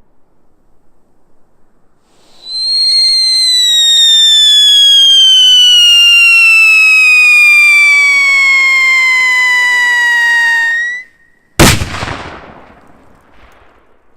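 Screaming whistle firework: a loud, piercing whistle that slides slowly down in pitch for about eight seconds, cuts off, and is followed a moment later by a single sharp bang that dies away over about a second.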